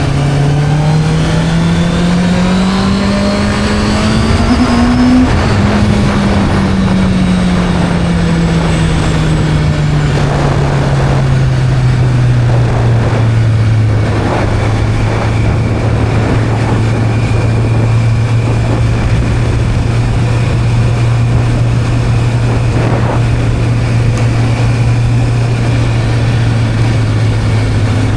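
Motorcycle engine under acceleration, its pitch rising steadily for about five seconds, then easing off and dropping back to a steady cruising note for the rest.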